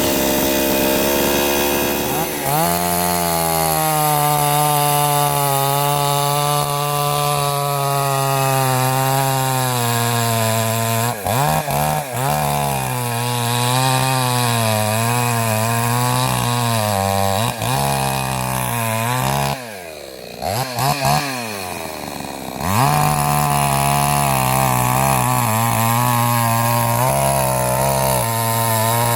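Salemmaster two-stroke gasoline chainsaw running at high revs, its pitch wavering up and down. About two-thirds of the way in it drops back for a couple of seconds, then revs up again.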